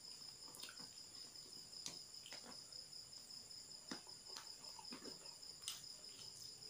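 Crickets chirping steadily, faint, with a few soft scattered clicks and ticks of eating.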